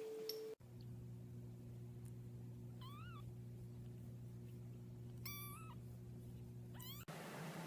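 A cat meowing: two short meows a couple of seconds apart and a quick chirp-like call near the end, over a steady low hum.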